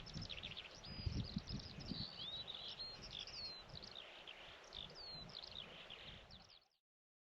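Small birds chirping and twittering, many short calls and falling whistles, over a gusty low wind rumble; the sound cuts off suddenly about six and a half seconds in.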